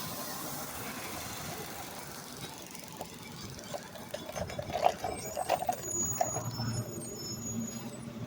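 Recycling truck at work: a steady hiss, then a run of metal clanks and knocks with a high squeal, and the engine's low running swelling near the end.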